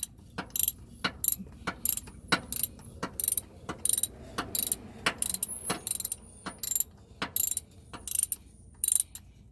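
Ratchet wrench clicking in quick, even strokes, about three clicks a second, as it unscrews the oil filter housing cap through a cap-type filter wrench.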